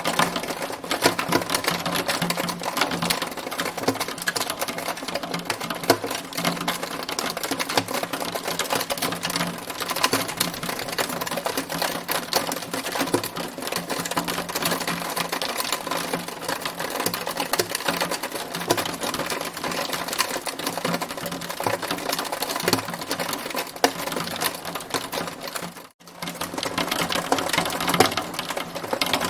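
Hail pelting a hard surface: a dense, steady rattle of rapid ticks and clicks, with one brief dropout a few seconds before the end.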